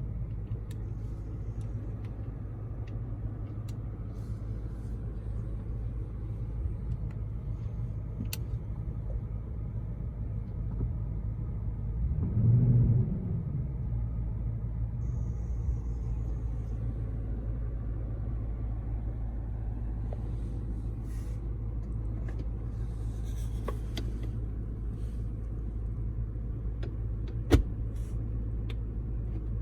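Toyota Land Cruiser engine running with a steady low rumble. About halfway through there is a brief swell, rising and falling in pitch, like a short rev, and a single sharp click comes near the end.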